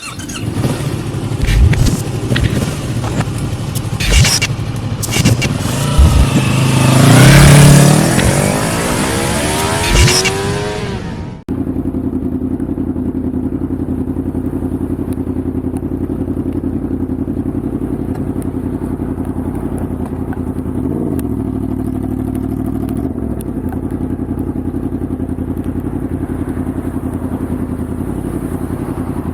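Yamaha MT-10's crossplane inline-four engine, revving and accelerating with rising and falling pitch and wind rush. About eleven seconds in the sound changes abruptly to a steady, even engine note.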